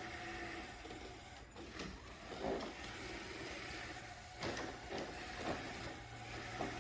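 Robot vacuum running: a steady mechanical whir and hum with a few short knocks and clicks scattered through it, about every second or so.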